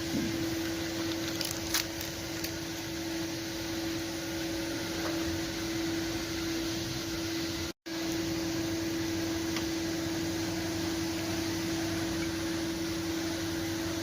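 Steady mechanical hum with a constant tone over a hiss, cut off for a split second about eight seconds in.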